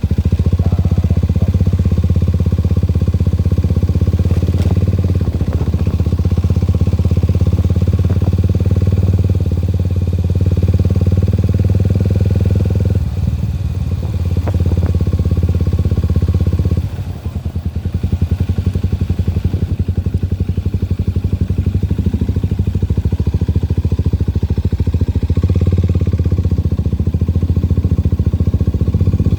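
Motorcycle engine running steadily while riding along a road. Its note eases off for a few seconds near the middle, then picks up again.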